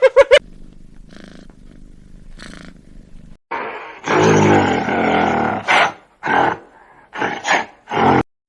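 An animal's loud, harsh, noisy call lasting about two seconds, starting a little after three seconds in, followed by four or five short sharp calls.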